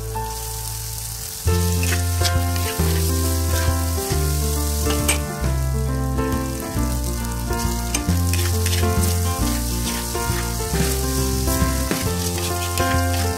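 Noodles, shrimp and egg sizzling as they are stir-fried in a pan, with a metal spatula scraping and tapping against the pan. Background music plays with them and gets louder about a second and a half in.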